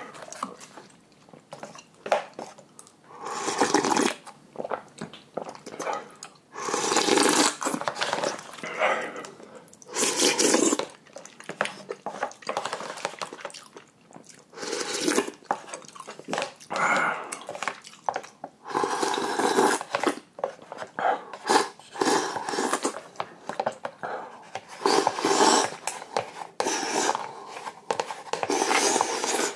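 Close-up eating sounds of a person chewing mouthfuls of spicy noodles, in irregular bursts a second or two long with short pauses between.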